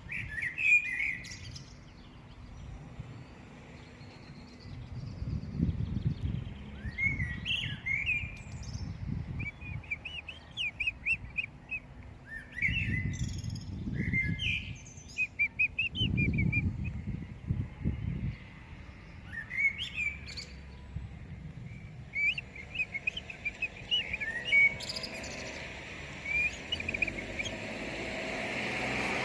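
Common blackbird singing: short phrases separated by pauses, each ending in a run of rapid high twittering notes. A low rumble comes and goes underneath, and a vehicle's noise rises near the end.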